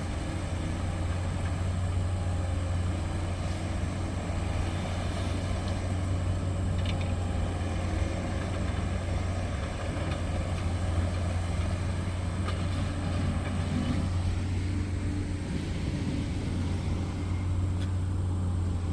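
Heavy engines running steadily with a constant low hum, from trucks and machinery working the gravel road base.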